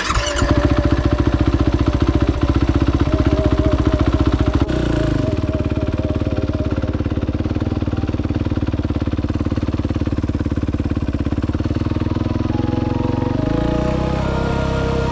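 Off-road motorsport engine running hard under throttle. Its pitch drops about five seconds in and climbs again near the end.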